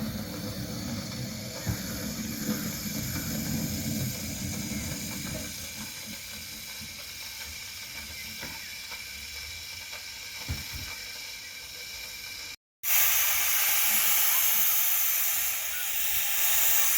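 Low rumble from a 15-inch-gauge steam train dying away, with a few clicks, then after a sudden cut a loud, steady hiss of steam from the locomotive.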